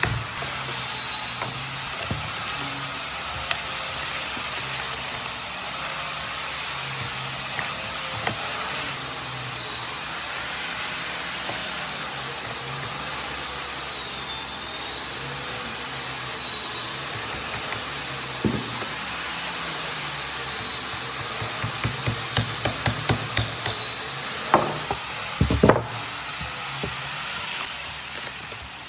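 A handheld power tool running steadily, its high whine wavering up and down in pitch, with a few sharp knocks near the end.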